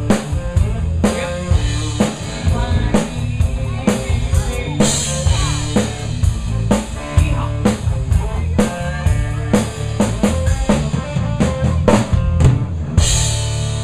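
Live band music with a busy drum-kit beat of kick, snare and rimshot hits over held bass and instrument notes.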